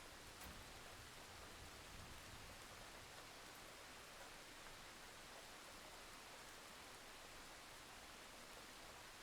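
Faint, steady rain sound: an even hiss with no distinct drops, which cuts off abruptly near the end.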